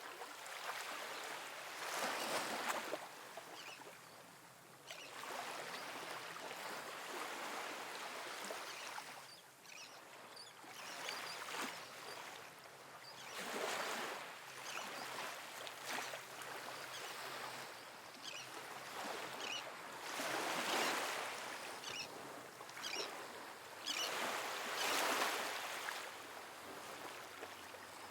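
Calm, soft ocean waves washing onto a sandy beach. The splashing swells and falls in surges every few seconds over a continuous wash of water.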